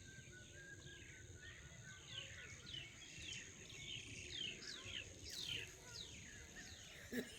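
A bird calling: a quick series of short whistled notes, each sliding down in pitch, louder in the middle, over a low rumble of background noise. A single knock near the end.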